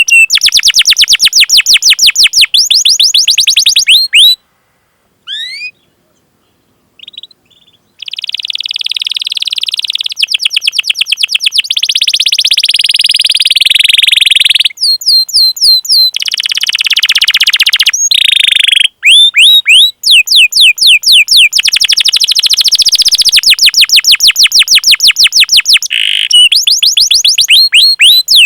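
Domestic canary singing loudly: fast rolling trills and runs of quick repeated 'cuit cuit' chirp calls, broken by a pause of a few seconds about four seconds in.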